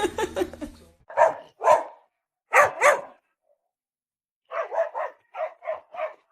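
A dog barking: two short barks, then two more, then a quicker run of about seven barks.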